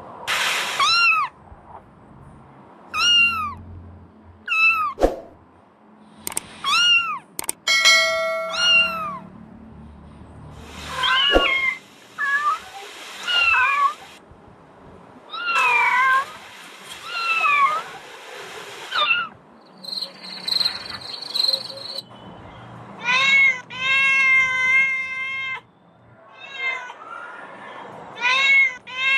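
Kittens meowing over and over: short meows that rise and fall in pitch, then several longer, steady-pitched cries, with a couple of sharp clicks in between.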